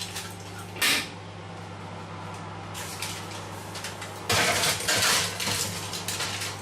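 Kitchenware clattering and clinking, most likely a metal baking tray being handled as chicken pieces are laid on it, in short bursts with a louder cluster a little past the middle. A steady low electrical hum runs underneath.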